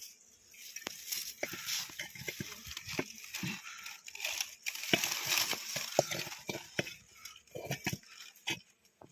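Irregular rustling and crackling with many scattered sharp clicks, coming in uneven bursts and dipping briefly about four seconds in.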